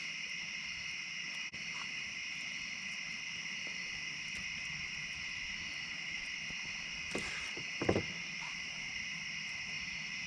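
Steady chorus of crickets and other insects chirring, with two short knocks about seven and eight seconds in.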